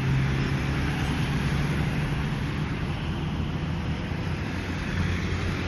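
Roadside traffic: a steady hum of passing vehicles, with a low engine tone that fades after about the first second.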